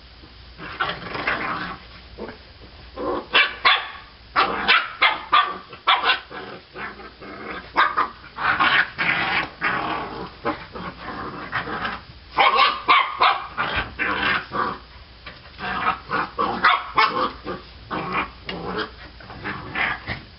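Young puppies play-fighting, with many short yaps and barks and some growling in irregular bursts.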